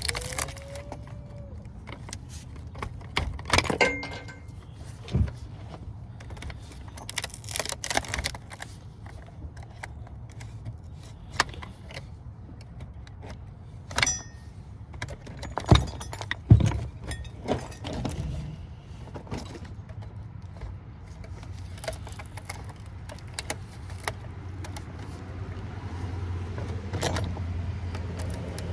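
Irregular metallic clinks, clanks and snaps of hand tools and copper wire while copper windings are clipped and pulled off a scrap transformer. A steady low hum runs underneath.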